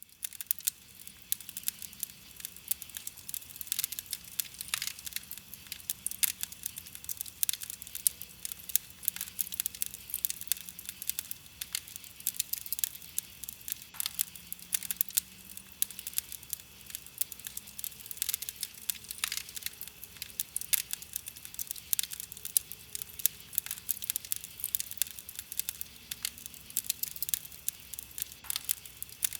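Wood campfire burning and crackling, with frequent sharp irregular pops and snaps over a steady soft hiss.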